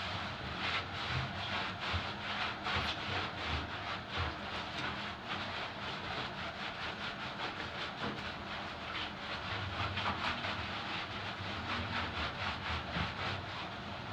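A wet dog's coat being scrubbed by hand, a quick back-and-forth rubbing of several strokes a second.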